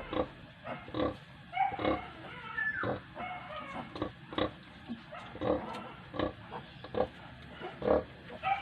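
Sow grunting rhythmically, about one to two grunts a second, as she nurses her piglets, with piglets squealing briefly a couple of times, most clearly two to three seconds in.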